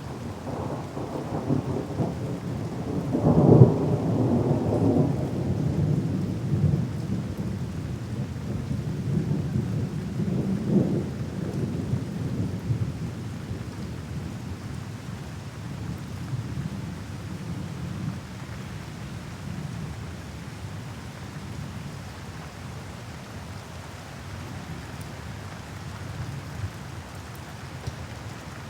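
Thunderstorm: rolling thunder rumbling over steady rain, loudest about three to four seconds in with another rumble around eleven seconds, then dying away to rain alone.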